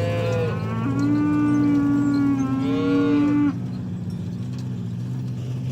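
Ox mooing: the tail of one call, then a single long moo of about three seconds that goes higher near its end. A steady low hum runs underneath.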